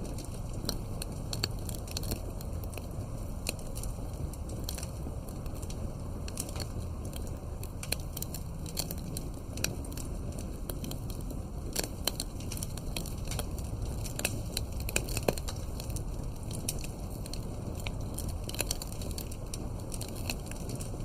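Campfire crackling: irregular sharp pops and snaps over a steady low rush of the burning fire.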